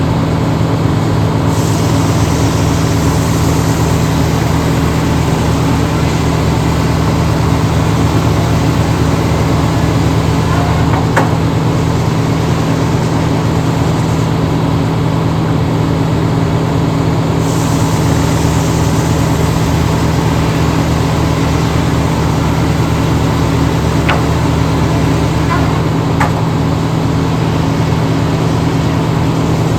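A large engine running steadily and loudly, its hum unbroken, with shifts in its upper hiss every several seconds.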